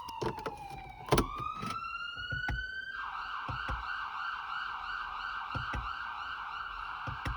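Emergency-vehicle siren: a slow wail falling and then rising in pitch, which switches about three seconds in to a fast warble. A few faint clicks sound over it.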